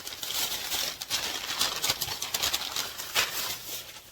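Wrapping paper and bags crinkling and rustling as a wrapped glass piece is unwrapped, a continuous crackle of rapid small clicks.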